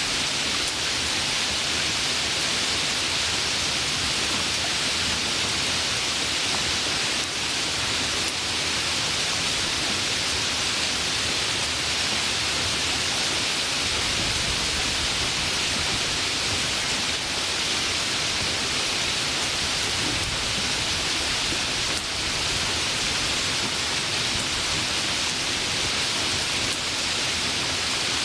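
Steady heavy rain, a dense even hiss with no single drops standing out.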